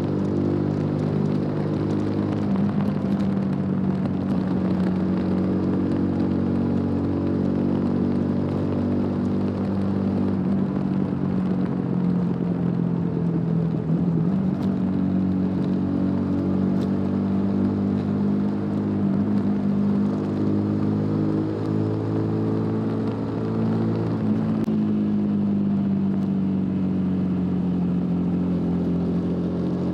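TVS Apache RTR 200 4V's single-cylinder engine through its stock exhaust, under way at a fairly steady cruise. Its pitch wavers slightly up and down, eases lower near the end, then picks up again.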